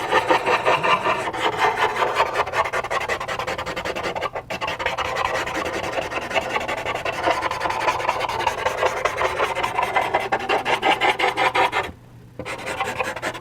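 Rapid back-and-forth rubbing of a blending tool on textured charcoal paper, softening a charcoal line. The strokes stop briefly about twelve seconds in, then resume.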